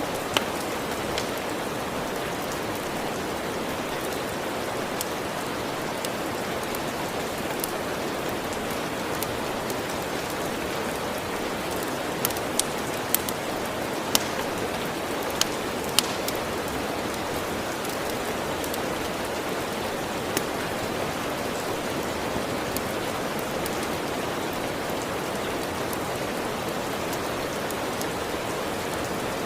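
Steady rain with scattered sharp pops from a crackling wood fire, several of them bunched together about halfway through.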